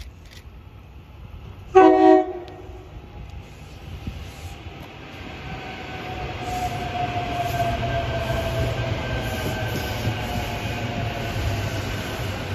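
SEPTA Silverliner V electric multiple-unit train sounding one short horn blast about two seconds in, then rumbling louder as it approaches and passes close by, with a whine falling in pitch.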